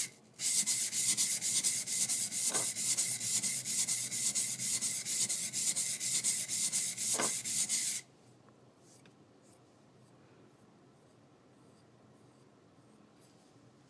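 High-speed steel skiving knife blade scraping back and forth on a coarse whetstone in quick, even strokes, several a second, while its back is flattened; the strokes stop abruptly about eight seconds in.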